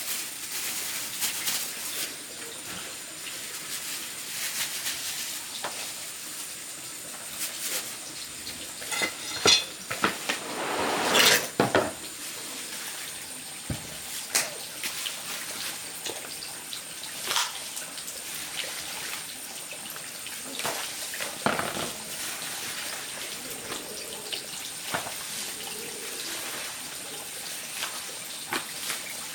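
Water running and splashing with clinks and knocks of pots, dishes and utensils, as in washing up. The loudest clatter comes about ten seconds in.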